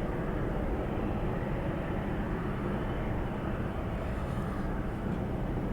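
Steady rumble of jet airliner engines at an airport, even and unchanging throughout.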